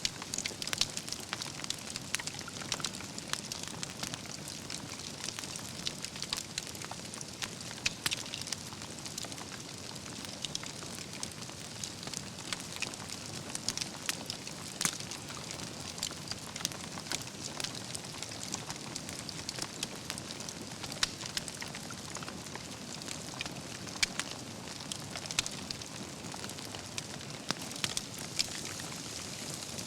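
Wood campfire burning, with a steady hiss and frequent sharp crackles and pops from the burning logs.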